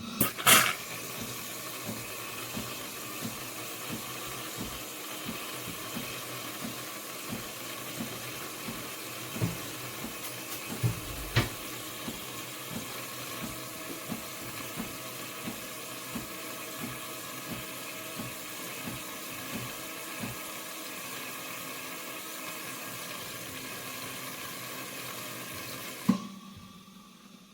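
De'Longhi Dinamica Plus bean-to-cup coffee machine dispensing a drink: a steady stream of liquid running into the cup, with the pump pulsing softly about twice a second. It stops with a click near the end.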